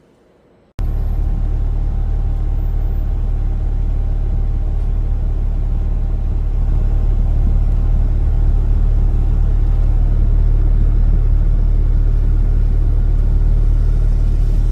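Porsche 911 Turbo (996/997) twin-turbo flat-six engine running steadily with a deep, even rumble. It cuts in suddenly just under a second in and grows slightly louder about halfway through.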